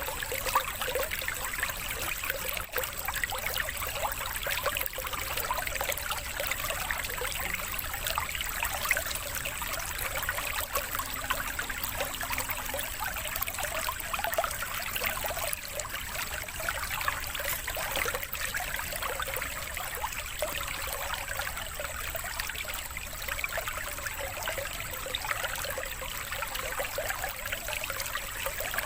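Water trickling and running steadily, like a small stream, used as a water-therapy background sound.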